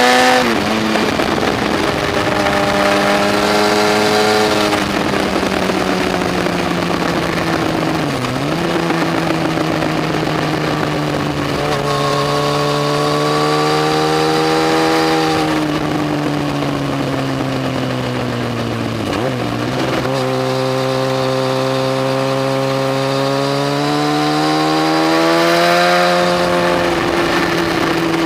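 Yamaha FZ1's inline-four engine running hard under way, its pitch slowly rising and falling with the throttle and dipping sharply for a moment about 8 and 19 seconds in, over steady wind noise.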